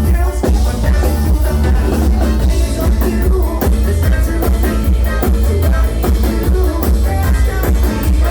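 A bluegrass-style rock cover band playing loud live music, with drum kit and heavy bass under a fast, even beat.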